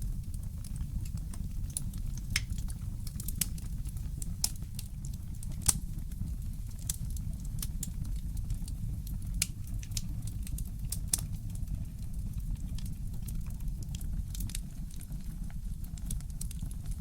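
Fireplace crackling: irregular sharp pops and snaps, a few louder than the rest, over a steady low rumble.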